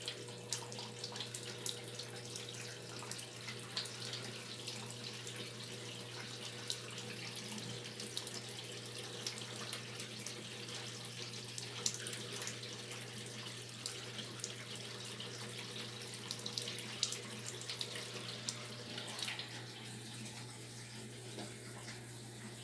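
Brastemp BWR12AB washing machine taking in water: a steady rush of running and splashing water over a low, even hum.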